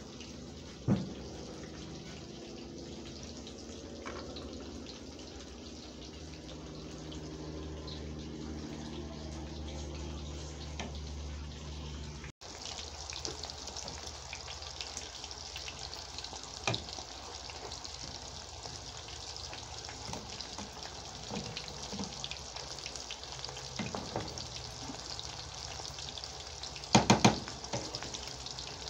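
Breaded chicken breasts frying in oil in a skillet: a steady sizzle, with scattered spoon clicks and scrapes against a metal pot and a loud clatter of metal near the end. A faint low hum with steady tones lies under the sizzle before a cut about halfway through.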